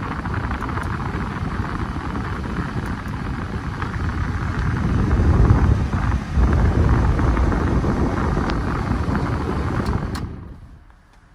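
Honda Acty van with its 660cc engine running: a steady, loud rumble that swells about five seconds in, then falls away sharply after a click near the end.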